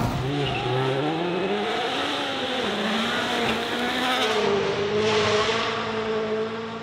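Rally car engine revving hard, its pitch climbing and dropping several times through gear changes and lifts, then holding steadier before fading away as the car passes.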